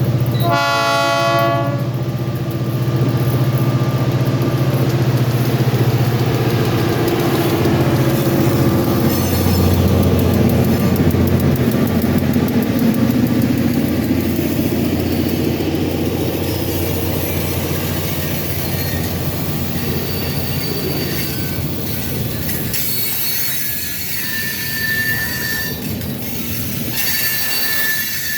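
Diesel locomotive with a car in tow rolling past, its engine a steady low drone, with a short horn blast just after the start. In the last third the engine drone fades and the wheels squeal on and off in high thin tones.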